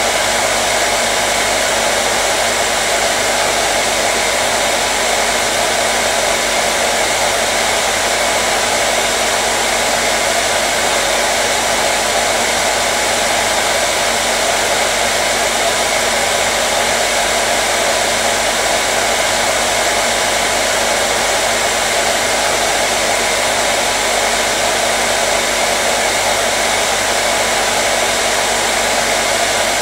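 Electric hair dryer blowing continuously at a steady setting: an even, unchanging rush of air with a faint motor hum.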